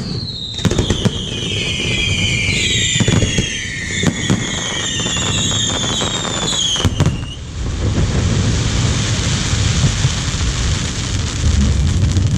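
Fireworks going off: several whistles at once, their pitch gliding downward, mixed with sharp bangs and pops for about seven seconds, then giving way to a dense crackling hiss.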